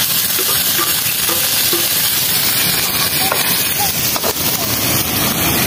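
Food frying in hot oil in a pan: a steady sizzle, with a few light clicks of stirring.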